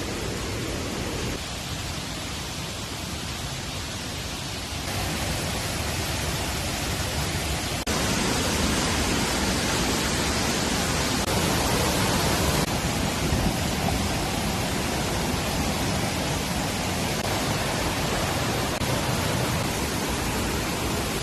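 Steady rushing water noise, an even hiss without any distinct tones, that jumps in level abruptly a few times, about a second and a half, five, eight and twelve and a half seconds in.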